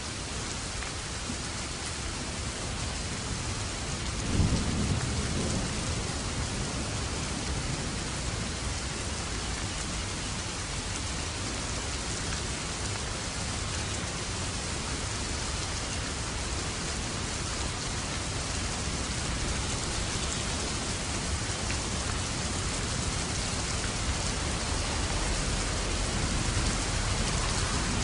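Steady rain with a thunderclap about four seconds in that trails off into rumbling. A low thunder rumble builds near the end.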